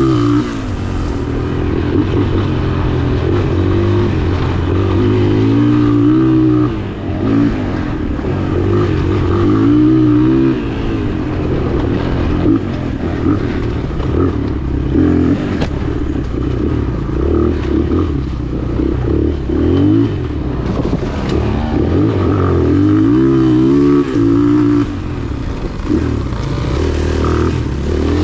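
Dirt bike engine ridden hard on a trail, revving up and dropping back over and over as the throttle is worked and the bike shifts through the gears.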